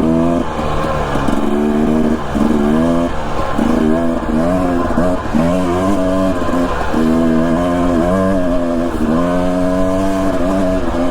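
Husqvarna TE250 enduro dirt bike engine under riding load, revving up and easing off over and over, its pitch climbing, holding, then dropping in repeated pulls.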